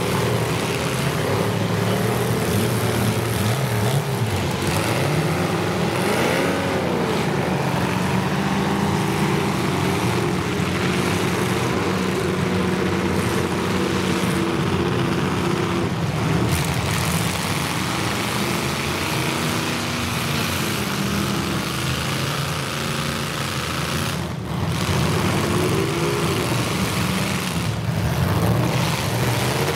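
Engines of several full-size demolition derby cars running together in a steady drone, revving up and down several times as the cars maneuver and push.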